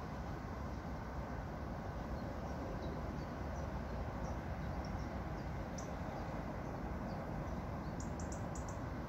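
Small birds giving short, high chirps now and then, with a quick run of chirps near the end, over a steady low rumble of outdoor background noise.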